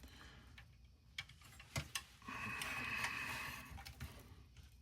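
Light clicks and a short stretch of fine mechanical ticking and rattling from small metal toy-truck parts being handled, the ticking lasting about two seconds in the middle.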